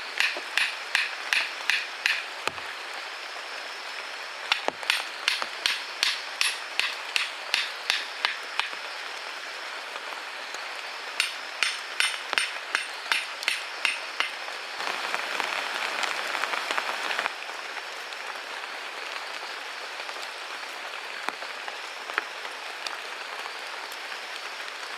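Rapid, rhythmic tool strikes with a light ringing edge, about three a second, in three runs with pauses between. A brief rasping noise follows about fifteen seconds in, all over a steady hiss.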